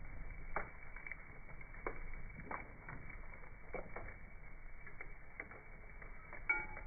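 Wood bonfire crackling, with irregular sharp pops every half second or so, heard slowed down from slow-motion footage so the pops sound dull and low. A short pitched hiss-like tone sounds near the end.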